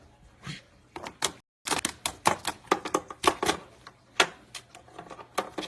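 Pet bird's beak clicking and nibbling at a cord: irregular sharp clicks and taps, several a second, with a brief cut-out about a second and a half in.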